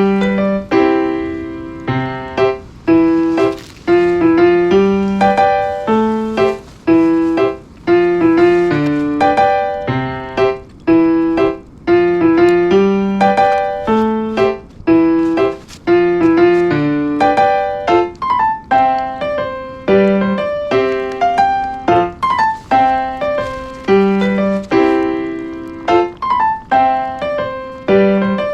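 Background piano music: struck notes that ring and fade, in a repeating melodic pattern.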